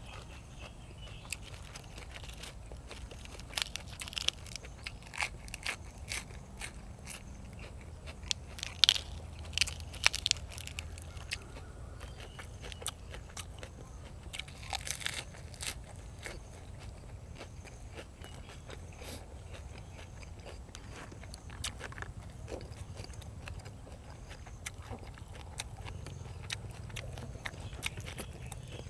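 A person chewing and biting food close to the microphone, with scattered sharp crunches and wet mouth clicks, as from eating raw shrimp salad with crisp fresh vegetables. The loudest crunches come a little under halfway through.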